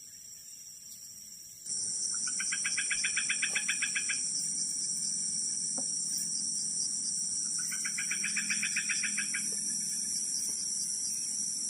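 A steady, shrill chorus of tropical forest insects starts abruptly just under two seconds in. Over it come two calls of about two seconds each from an unidentified wild animal, each a fast run of rapid pulses.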